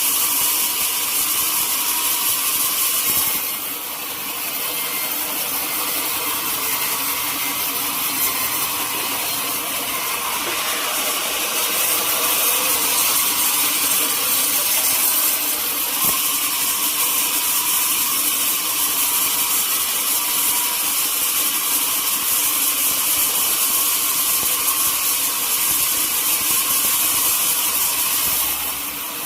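Sawmill saw running steadily through a teak log. The noise drops briefly a few seconds in and again near the end.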